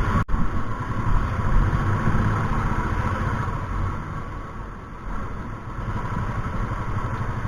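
Motorcycle engine running while riding on the road, with a steady rush of wind noise over the engine rumble; it eases off slightly near the middle and picks up again.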